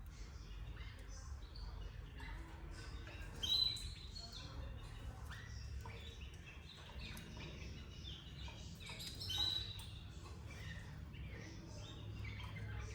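Canaries chirping, a busy run of short high calls with two louder calls, one about three and a half seconds in and one near the middle.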